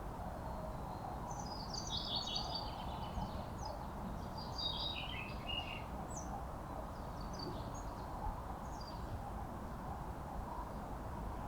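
Birdsong over steady low background noise: a songbird delivers a quick run of short high notes that steps down in pitch over a few seconds, followed by a few fainter scattered chirps.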